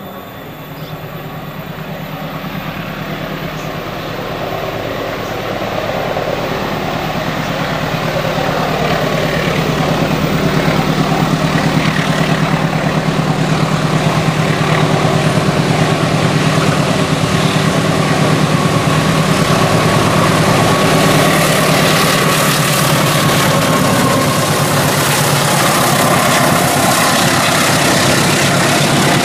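KAI diesel locomotive's engine drumming steadily as it hauls a passenger train round a tight curve, growing louder over the first ten seconds as it approaches, then holding loud as the coaches pass. A thin high squeal from the wheels on the curve joins in the second half.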